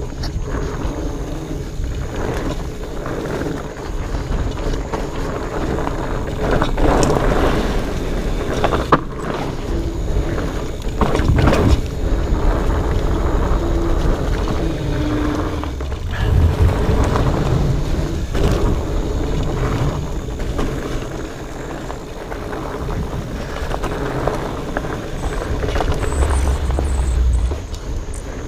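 Fat bike being ridden over rocky, rooty singletrack: tyre and drivetrain rattle with wind buffeting the microphone, sharp clunks from impacts every few seconds, and a few short squeaks.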